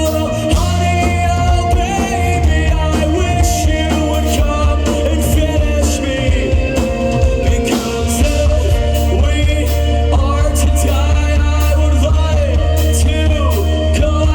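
Live rock band playing a song, with a singer, guitars, bass and drum kit.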